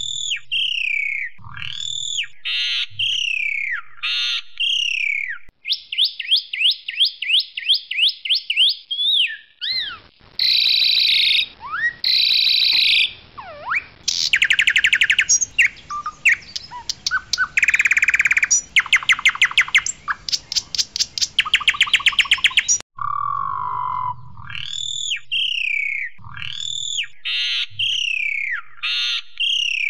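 Asian pied starling (jalak suren) singing loudly in a varied song: clear falling whistles, a run of quick rising notes, harsh chattering bursts, then a long fast rattling trill before the opening whistles come round again about 23 seconds in.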